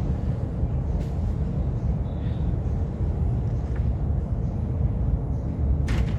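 Steady low rumble of an MTR M-Train, with a faint click about a second in and a sharper click near the end.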